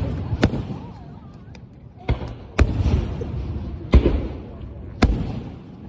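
Aerial fireworks shells bursting overhead: five sharp booms, a second or so apart, each with a rolling echo that fades. Smaller crackles come between them.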